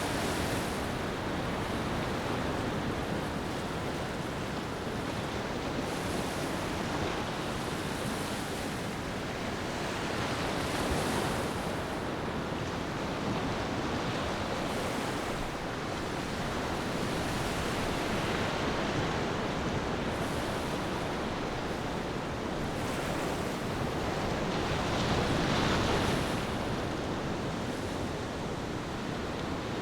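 Ocean surf washing onto a beach, a steady rush of water that swells and eases every several seconds, with its biggest surge a few seconds before the end.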